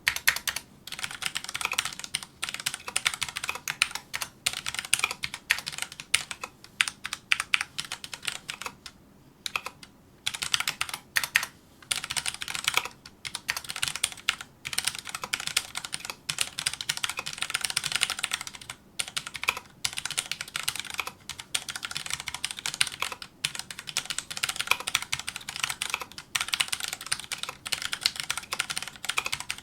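Fast touch-typing on a Filco Majestouch2 mechanical keyboard with Cherry MX Brown switches: a rapid stream of key clacks, broken by a few short pauses.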